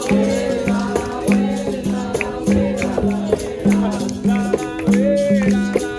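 Capoeira roda music: a berimbau struck in a steady rhythm, alternating between two low notes, with a rattling caxixi and voices singing over it.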